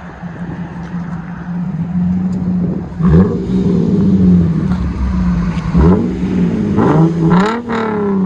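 Straight-piped Lexus IS 250's 2.5-litre V6 idling, then revved in several quick throttle blips, the pitch sweeping up and falling back each time; the last two blips come close together near the end.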